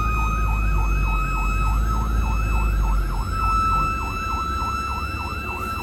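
Emergency vehicle siren on a fast yelp, rising and falling about four times a second, with a second steady tone that climbs slowly in pitch, over a low rumble that eases about halfway through.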